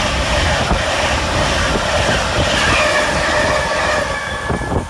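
Avanti West Coast Class 390 Pendolino electric train passing close at speed: a loud, steady rush of wheels on rail and air that drops away suddenly near the end as the last carriage clears.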